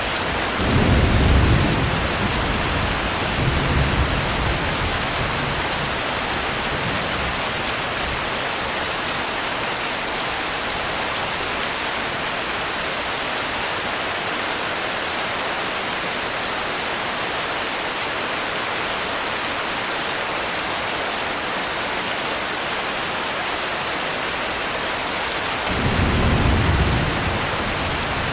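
Steady heavy rain with low, rolling rumbles of thunder: two close together near the start and one more near the end.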